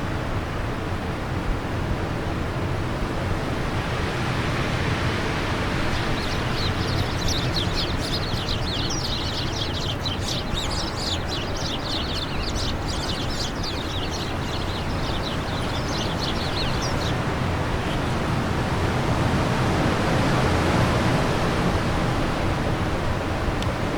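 Wind blowing steadily in a constant rushing hiss. A small bird sings a fast, dense run of high chirping notes from about six seconds in until about seventeen seconds.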